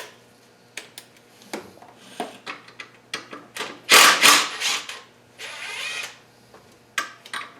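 Hand tools working the 12 mm bolts on a KA24DE's oil pickup. Scattered metallic clicks and knocks, then two louder rasping bursts of rapid clicking, about four and five and a half seconds in, as a bolt is turned.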